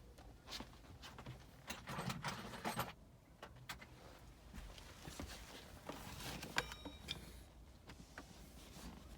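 Scattered light clicks and metallic rattles of hand tools being handled, a screwdriver bit set being sorted and tried for the right Torx size. About two-thirds of the way in there is a short ringing metal tick.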